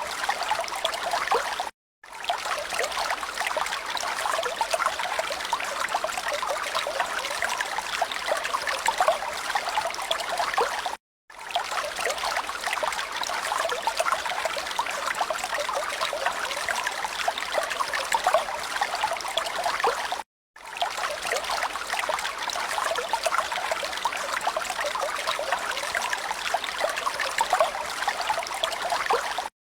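Trickling, running water, steady and noisy with no calls or tones in it, played as a loop: it drops to a brief silence about every nine seconds and starts again.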